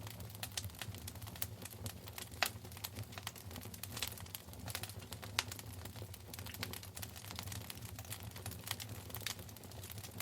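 Wood fire in a fireplace crackling: irregular snaps and pops, with one louder pop about two and a half seconds in, over a low steady hum.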